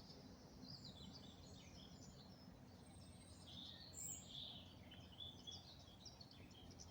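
Faint woodland birdsong: scattered short chirps and phrases from small birds, a little louder about four seconds in, over a low steady background hum.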